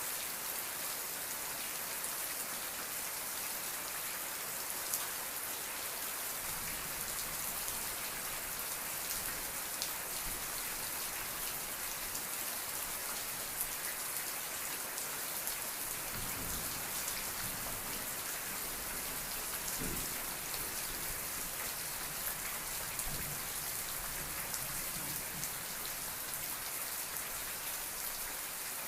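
Steady rain falling on a surface, many small drop ticks over an even hiss, with a soft low rumble now and then.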